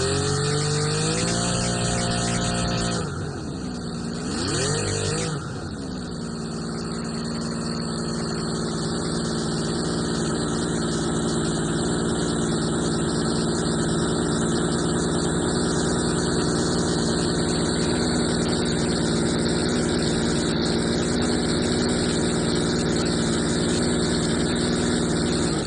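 Model V8 engine running. Its pitch rises over the first couple of seconds, sags and picks up twice between about three and five seconds in, then holds a steady speed.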